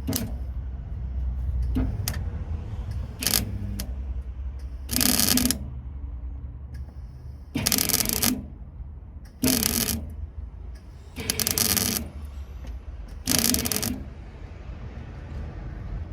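Welder laying tack welds on a car's sill patch panel: five welds of about half a second to a second each, a few seconds apart, with a few short clicks before them.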